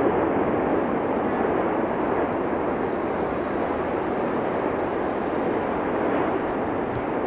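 Steady, rushing roar of the erupting Cumbre Vieja volcano, a continuous noise with no breaks.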